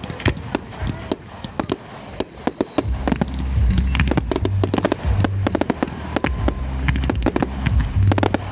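Fireworks going off in rapid, irregular pops and crackles, with bass-heavy music setting in underneath about three seconds in.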